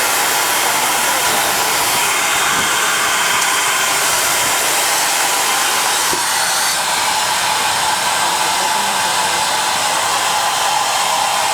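Steady, loud hiss of steam escaping from a JNR Class C11 steam tank locomotive standing with steam up before departure.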